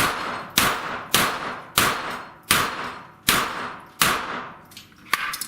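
A string of pistol-calibre gunshots fired at steel plates: seven loud shots roughly 0.6 to 0.8 seconds apart, each with a ringing tail, then two fainter cracks near the end.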